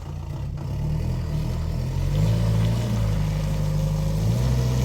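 Car engine running and being revved: the engine note steps up about two seconds in, getting louder, and shifts again near the end.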